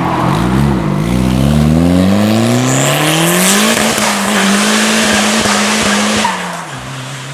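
Turbocharged D16Y8 Honda Civic engine pulling hard, its pitch climbing steadily for a few seconds, then held flat near the top with a loud rushing hiss over it. About six seconds in the revs drop as the throttle is lifted. Heard from inside the car.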